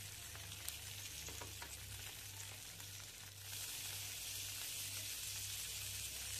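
Kebab wraps frying in margarine on a nonstick grill pan: a steady sizzle with a few faint crackles, growing a little louder about halfway through.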